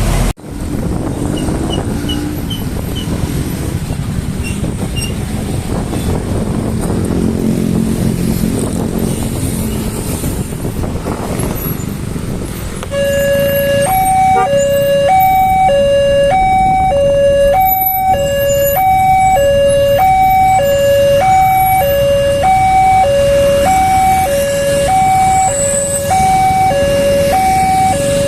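Road traffic noise with engine hum at a railway level crossing. About halfway through, the crossing's electronic warning alarm starts: two tones alternating steadily, high and low, the signal that a train is coming and the gates are closing.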